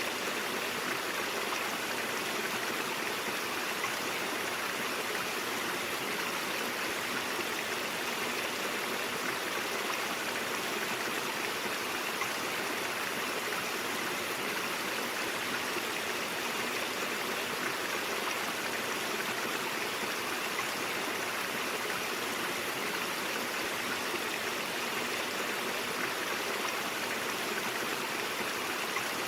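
A brook flowing steadily: an even, unbroken rush of water that sits in the middle and upper range, with little deep rumble.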